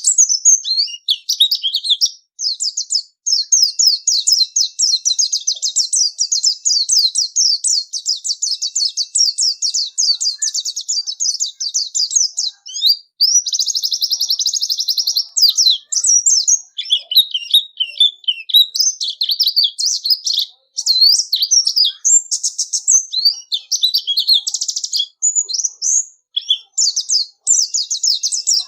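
White-eye (pleci) singing a long, fast, high-pitched warbling song of rapid chirps and twitters with only brief pauses, broken by dense buzzy trills about halfway through and again near the end.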